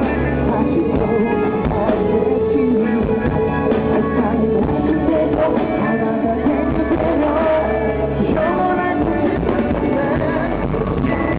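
Live pop concert music with singing over a band, loud and continuous.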